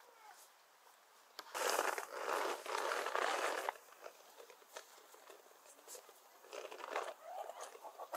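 Crinkling and rustling of something being handled: a dense crinkle for about two seconds, then lighter rustles and small clicks.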